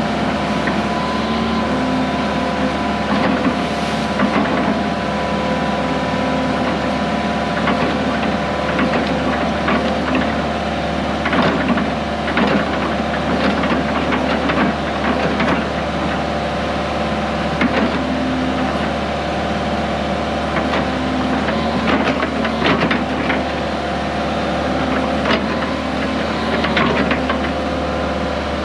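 Diesel engine of a heavy machine running steadily under load while it pulls a water line plow through the ground, with scattered knocks and cracks from the plow and the soil.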